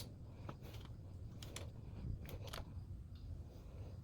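A few light, irregular clicks and taps of a hand tool on the oil filter cover bolts of a CF Moto CForce 600 ATV as they are tightened, one sharper click at the start, over a low steady hum.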